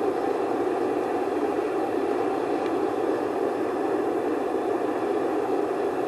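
Campfire burning with a steady low rushing noise of flame, even throughout, with no distinct crackles or pops.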